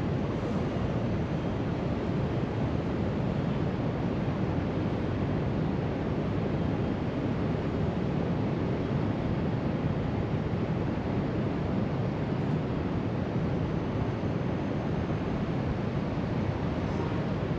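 A steady wash of ocean surf breaking along the shore, mixed with wind on the microphone.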